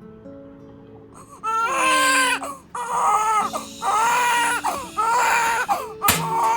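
Newborn baby crying: after a quiet opening, about four loud wailing cries of about a second each, starting about a second and a half in. Soft guitar music underneath, and a sharp click near the end.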